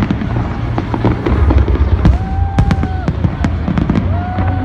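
Fireworks going off: a continuous low rumble of bursts with many sharp bangs and crackles. Two held steady tones, each about a second long, sound over it near the middle and near the end.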